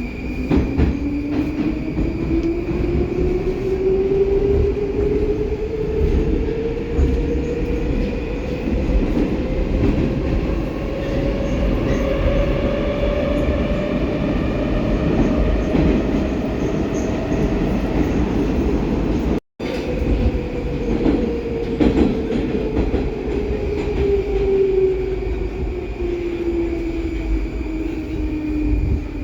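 Metro train car running between stations, from inside the car, over a steady rumble of wheels on rails. The 'Baltiets' train's traction motor whine rises in pitch for about sixteen seconds as the train accelerates, then falls as it slows toward the next station. The audio cuts out for a moment about nineteen seconds in.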